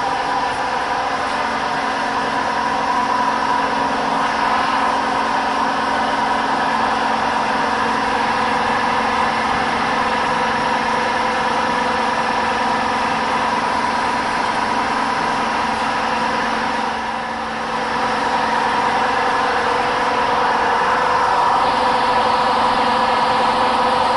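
Metal spinning lathe running steadily, a constant machine hum with several steady tones over a hiss. It dips briefly about seventeen seconds in and gets a little louder toward the end.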